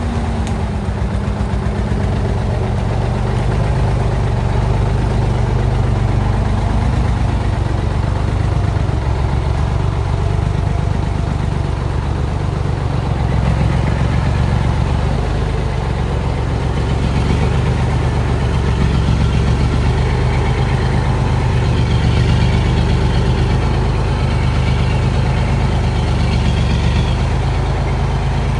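Heavy log truck's engine running steadily, a low drone.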